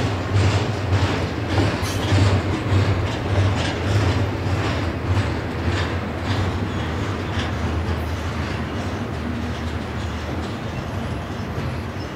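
Double-stack container train's well cars rolling past: a steady low rumble of steel wheels on rail with a regular clickety-clack, easing off slightly in the second half.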